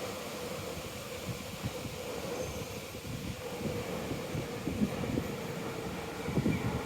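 Strong wind rushing through ginkgo leaves, with gusts buffeting the microphone in low thumps about a second and a half in, around five seconds in and again near the end. A faint steady hum runs underneath.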